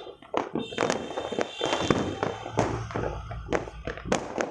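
Fireworks going off: a rapid, irregular string of sharp cracks and bangs, with a low rumble from the bursts in the middle.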